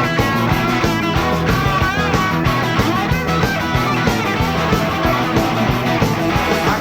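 Live rock band playing an instrumental passage without vocals: electric guitars, bass guitar and drums over a steady beat.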